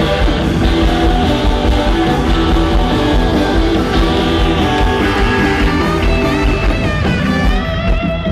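A live rock band playing loudly, electric guitar over a steady bass and drum beat, with wavering bent notes coming in about six seconds in.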